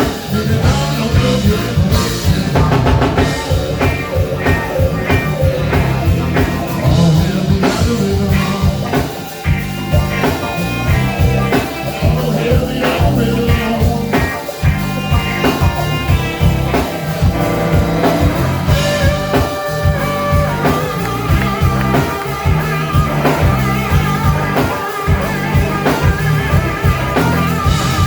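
Live rock band playing with electric guitar and drum kit, a steady beat and a guitar melody line.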